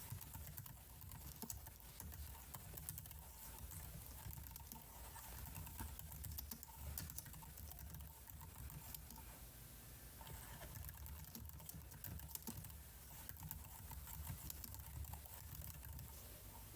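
Computer keyboard typing: a quiet, irregular run of key clicks.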